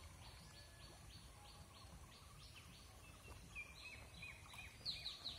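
A bird calling in a rapid series of short, descending notes, about four a second, growing louder near the end, over a faint low rumble.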